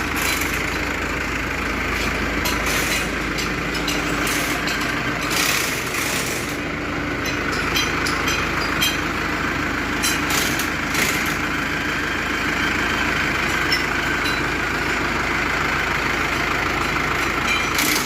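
Mahindra tractor's diesel engine running steadily at idle, with occasional short metallic knocks and clanks.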